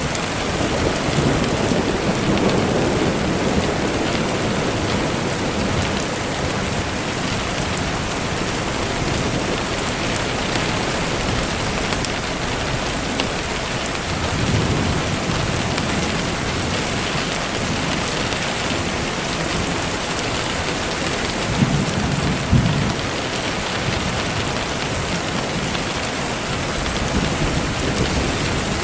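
Steady rain falling, with low rumbles of thunder rolling in a few times: near the start, about halfway through, and about three-quarters through.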